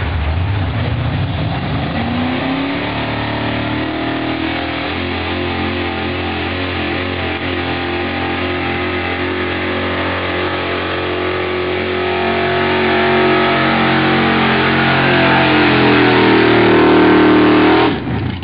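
Altered stock pulling truck's engine running hard at high revs, climbing in pitch about two seconds in and then holding, growing louder near the end before cutting off suddenly.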